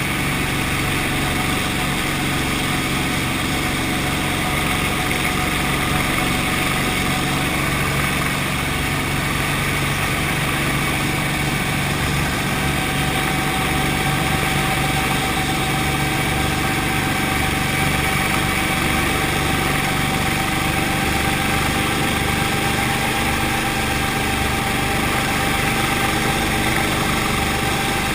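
Brantly B2B helicopter's four-cylinder Lycoming piston engine and rotor running steadily, a continuous drone with a thin whine over it that grows a little stronger about halfway through.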